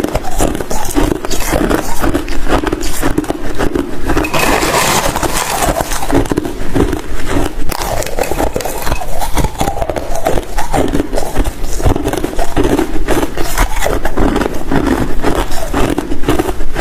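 Ice being chewed, a dense run of crunching and crackling with a rough chewing rhythm of about one or two bites a second.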